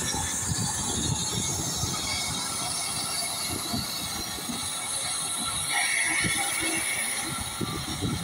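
Pullman carriages and an SE&CR O1 steam locomotive rolling slowly over the rails, with uneven wheel and coupling clatter and a brief wheel squeal about six seconds in. Heavy wind buffeting on the microphone runs underneath as a rumble.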